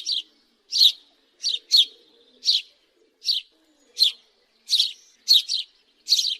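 House sparrow chirping: a steady series of short, high chirps, about one and a half a second, some given as quick doubles.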